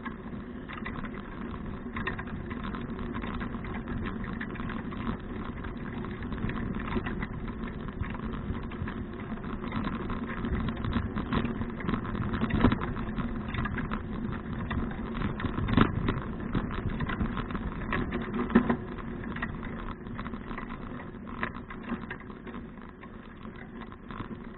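Bicycle ride noise from a 2012 Fuji Touring bike, picked up by an action camera: a steady rumble of tyres and wind with small rattles, and a few sharper jolts in the second half.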